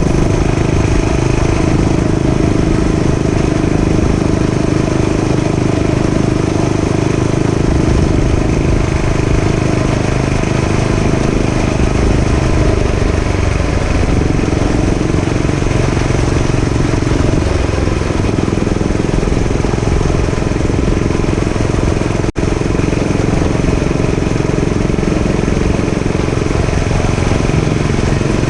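Gasoline dirt bike engine running steadily while being ridden, with a momentary dropout about 22 seconds in.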